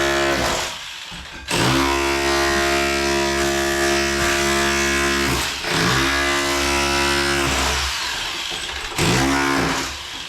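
Bosch Bulldog Max SDS Plus rotary hammer with a tile chisel bit hammering, chiselling up floor tile. It runs in bursts: a long run of about four seconds, a shorter one of about two, and a brief one near the end, with short pauses between trigger pulls.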